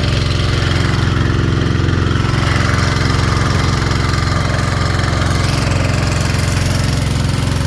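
Small gasoline engine of a gold suction dredge running steadily at an even speed.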